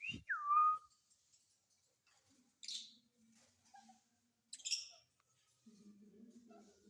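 Rose-ringed (ring-necked) parakeet calling: one falling whistle near the start, then two short harsh squawks a couple of seconds apart. A faint low hum comes in near the end.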